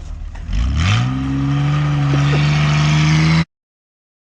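Truck engine revved hard: it climbs quickly from a low rumble to high rpm and holds there steadily, then the sound cuts off suddenly.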